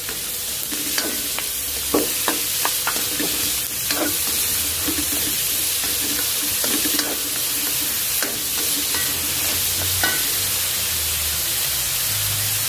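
Mushrooms, onion and garlic sizzling in butter in a metal wok with a steady hiss, stirred with a spoon that scrapes and knocks against the pan every second or so.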